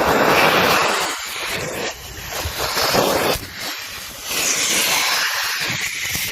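Car wash vacuum hose sucking air with a loud rushing noise that swells and dips several times as the nozzle works over the car's interior.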